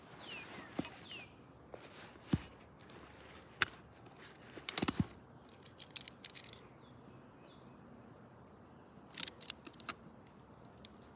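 Scattered sharp clicks, snaps and crackles from roof shingles being worked loose by hand and tool, in two busier clusters about halfway through and near the end. A couple of short falling chirps sound near the start.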